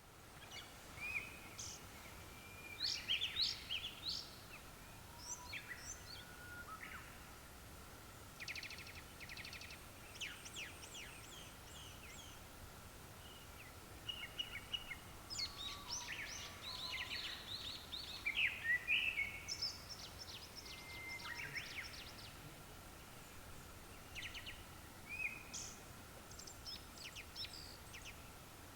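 Japanese thrushes singing: a continuing run of short, varied whistled phrases and quick trills, one phrase after another with brief gaps.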